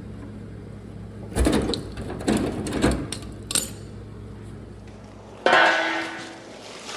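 Metal clinks and clanks from hand tools working on car body parts. There is a quick run of knocks between about one and a half and three and a half seconds in, then a louder metal clank at about five and a half seconds that rings briefly and dies away.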